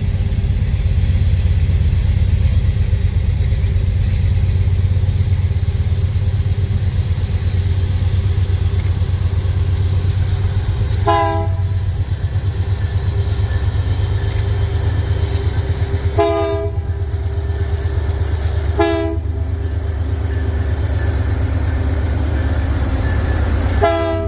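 Norfolk Southern freight train rolling past with a heavy, steady low rumble from its diesel locomotives and cars. Four short pitched blips ring out over the rumble, about 11, 16, 19 and 24 seconds in.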